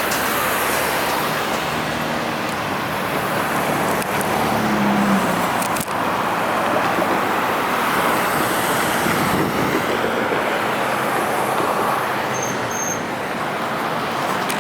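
Steady road traffic: cars and trucks driving past close by.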